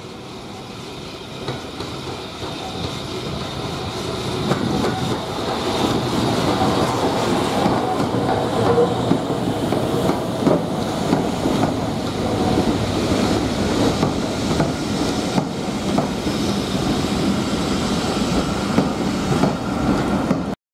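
Heritage steam-hauled train running on the line, its wheels and carriages rattling and clicking over the track. It grows louder over the first few seconds, then stays close and loud until it cuts off suddenly near the end.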